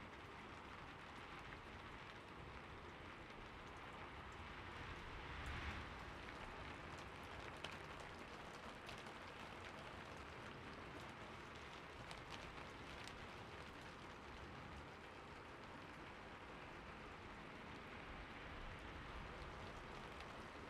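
Steady rain falling, with scattered drops ticking on a surface and a brief swell about five or six seconds in.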